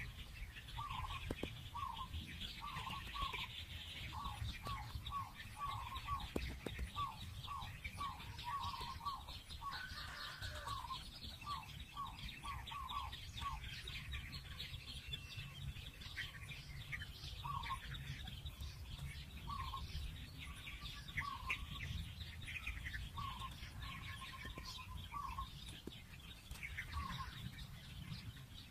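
Birds calling: a run of short repeated calls, about two a second, over higher chirping. The repeated calls thin out to scattered single calls about halfway through, over a steady low rumble.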